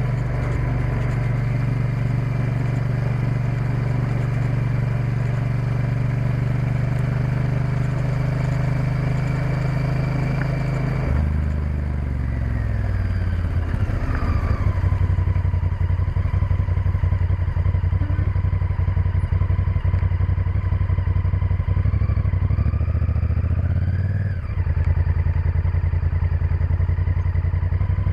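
Honda Varadero XL1000's V-twin engine running under way. About eleven seconds in the engine note falls as the bike slows and then holds steady at a lower pitch. Near the end the revs climb, drop off sharply for a moment and pick up again.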